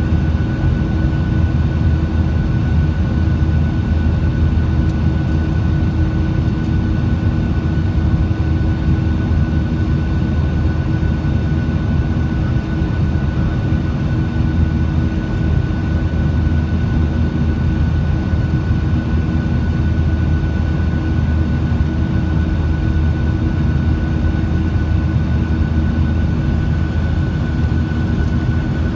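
Boeing 737-800's CFM56 jet engines running steadily: a constant loud rumble with a steady whine above it.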